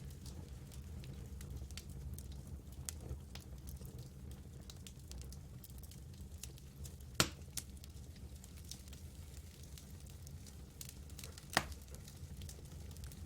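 Campfire burning with a steady low rumble and frequent small crackles, and two louder pops, one a little past halfway and one near the end.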